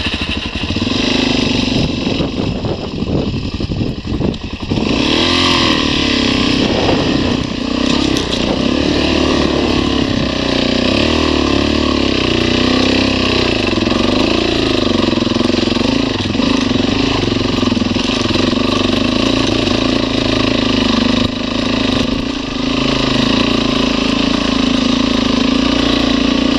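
Motorcycle engine running under load on a rough trail climb, its pitch rising and falling as the throttle is worked. Choppy and uneven for the first few seconds, then steadier.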